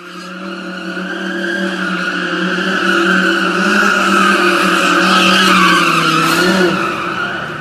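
Car tyres squealing in one long, steady screech over an engine held at high revs, growing louder over the first few seconds.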